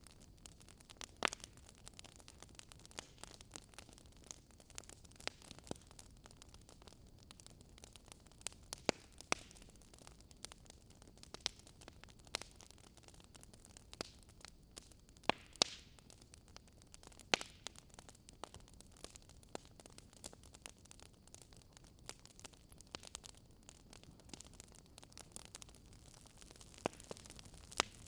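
Wood fire crackling faintly: a low steady hiss with irregular sharp pops and snaps every second or so.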